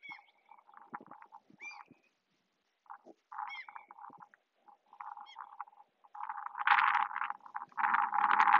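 Birds calling in short, separate calls, some hooking upward in pitch, over bursts of rustling noise that grow loud in the last few seconds.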